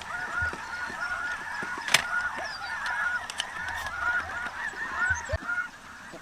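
A large flock of snow geese calling, a dense, continuous chorus of overlapping high honks. One sharp crack stands out about two seconds in.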